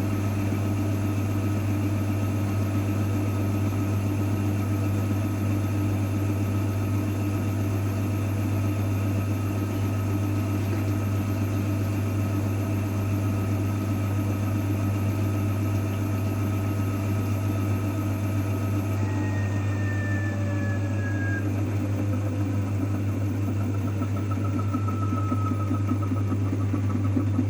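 AEG front-loading washing machine running with a steady, loud mechanical hum and faint whining tones; about two-thirds of the way in, a faint whine slides in pitch as the motor speed shifts.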